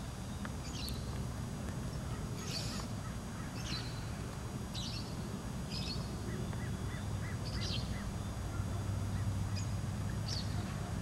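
Birds calling in short, high notes every second or two, with a few softer chirps about halfway through, over a steady low rumble.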